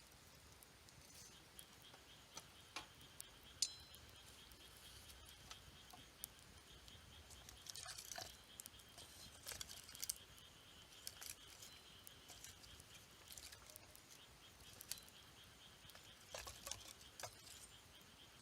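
Wood campfire crackling faintly, with scattered small snaps and pops, a sharp one about three and a half seconds in and little clusters of them later on.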